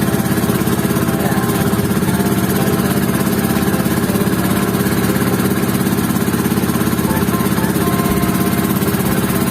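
Small motorized outrigger boat (bangka) engine running steadily, a constant fast-pulsing drone as it carries the boat across the lake.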